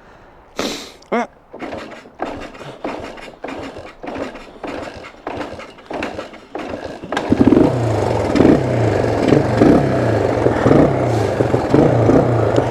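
Short scuffing knocks repeat about twice a second. Then, about seven seconds in, the 1974 Honda XL175's single-cylinder four-stroke engine fires up and keeps running with a loud, pulsing note.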